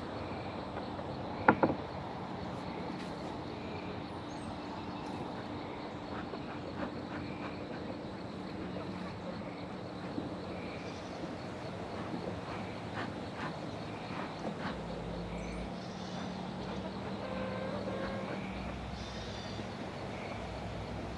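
Honeybees humming around an open hive, with scattered small clicks and knocks of hive equipment being handled and one sharp knock about a second and a half in.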